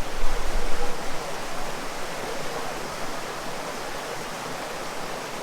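Mountain stream rushing over rocks: a steady wash of water noise, with a low rumble in about the first second.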